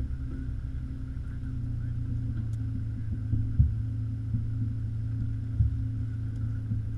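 1984 Mercedes 190E 2.3-8v's four-cylinder engine idling steadily while the car stands still, with a few brief low thumps about three and a half and five and a half seconds in.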